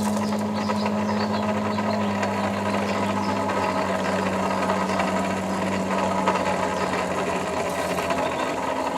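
Forge blower running with a steady hum, pushing air into a forge fire that is being lit. The hum drops slightly in pitch about two seconds in, and its main tone fades near the end.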